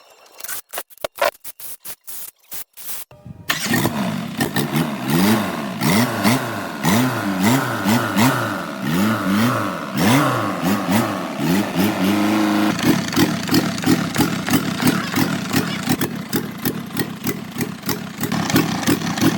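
Old truck engine starting after a few short choppy bursts, then revved up and down several times before settling into a steady pulsing run.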